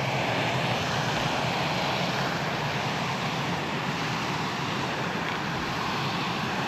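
Steady rush of a moorland river flowing fast beside a small footbridge.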